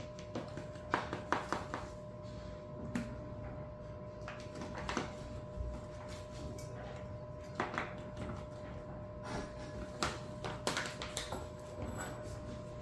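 Intermittent short scrapes and knocks of a measuring cup scooping and pouring dry powder into a container, in clusters every few seconds, over a faint steady hum.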